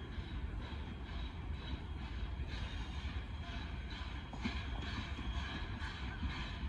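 A train running by: a steady low rumble with faint high ringing above it.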